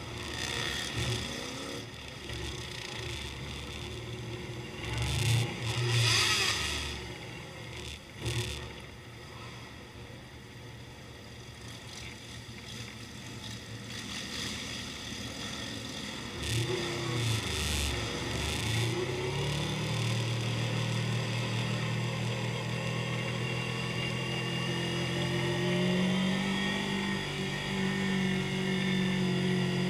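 Motorcycle engines revving in short bursts, then settling into a steady running note about two-thirds of the way through.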